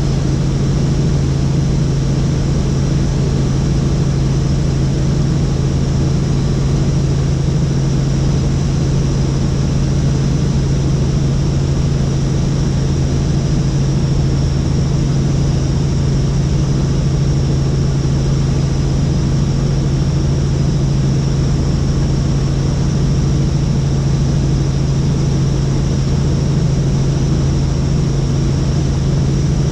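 Helicopter in steady flight: a constant, loud drone of rotor and engine with a faint steady high whine over it.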